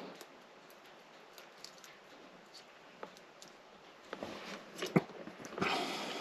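Scattered light clicks and handling noises, with a sharp click about five seconds in and a short rustling stretch near the end.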